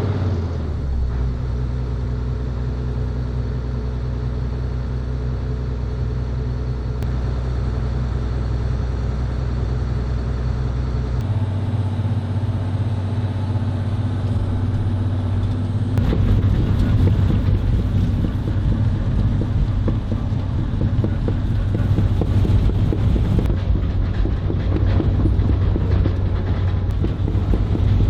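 Cat 315B excavator's diesel engine running steadily with a low hum. From about 16 seconds in it is joined by a dense, fast clanking rattle, like the tracks as the machine travels.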